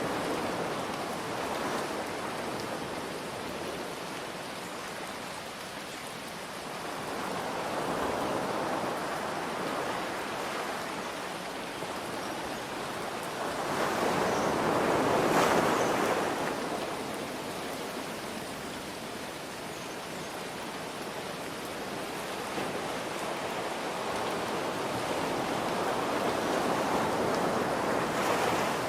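Ocean waves surging and washing in slow swells several seconds apart, the biggest about halfway through, over a steady hiss of rain.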